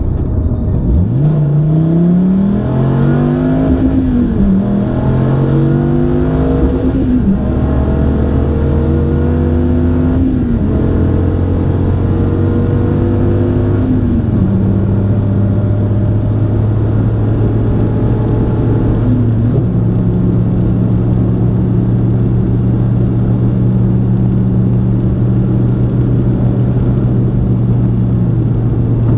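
Dodge Viper GTS's V10 engine accelerating at full throttle, heard from inside the cabin. Its pitch climbs and drops at each of several upshifts, then holds steady at high speed, about 160 mph.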